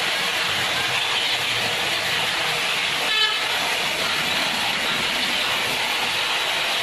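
Steady hissing noise of a running vehicle, with one short horn toot about three seconds in.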